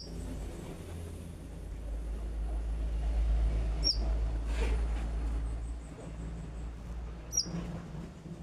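A konin songbird giving three short, sharp, high chirps, each curling downward, spaced a few seconds apart, over a low rumble.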